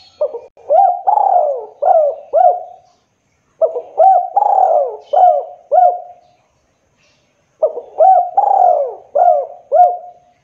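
Spotted dove (tekukur, also called derkuku) cooing: three phrases of about five rolling coos each, a second or so apart, several notes with a quick upward flick.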